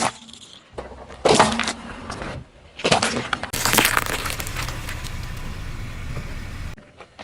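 A car's tyre rolling over and crushing crunchy objects: sharp crunching cracks about a second in and again near three seconds, then a longer stretch of crackling and crunching that cuts off suddenly near the end.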